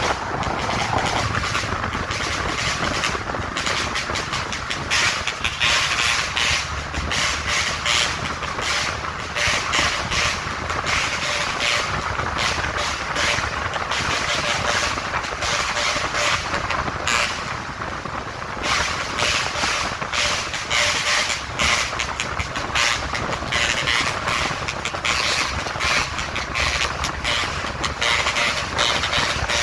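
Road traffic passing by, trucks among them: a steady rush of engine and tyre noise.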